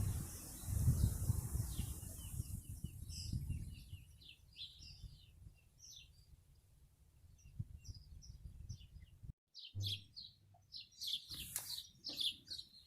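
Small birds chirping and singing, a steady string of short high chirps, with a low rumble under them in the first few seconds. About nine seconds in, the sound drops out completely for a moment before the chirping carries on.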